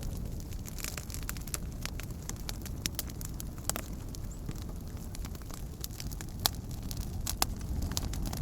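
Wood campfire crackling, with irregular sharp pops and a few louder snaps, over a low steady rumble.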